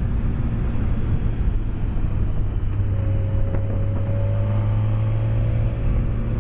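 BMW K1200S inline-four engine running steadily on the move, with wind and road rumble, heard from a microphone inside the rider's helmet.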